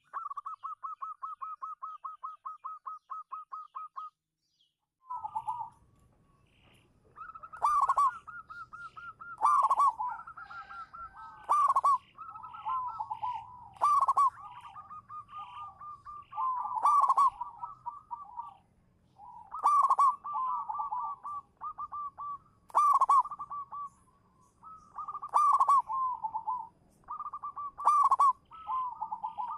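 Zebra doves (perkutut) cooing. It opens with a fast even purring trill of about eight notes a second. After a short break come repeated cooing phrases, each led by a loud sharp note every two to three seconds, over a faint low hum.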